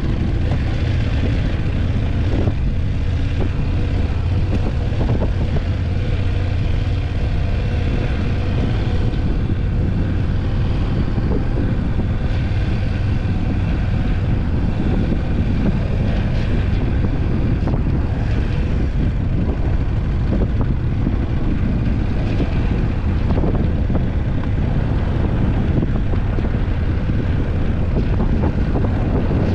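BMW F850GS motorcycle's parallel-twin engine running steadily under way, with wind noise on the microphone.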